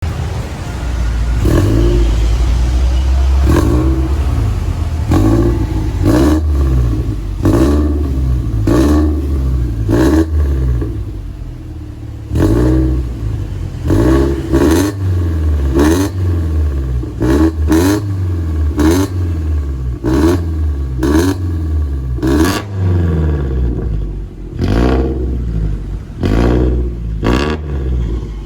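Toyota FT86's 2.0-litre flat-four boxer engine, breathing through an aftermarket full exhaust system with an electric valve, revved again and again in quick throttle blips that rise and fall back to idle, some coming in rapid clusters.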